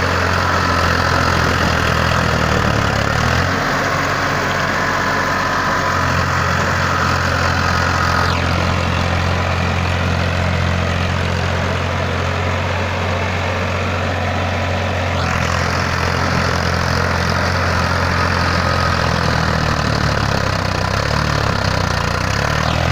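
Tractor's diesel engine running steadily at idle, its low note shifting briefly about four seconds in.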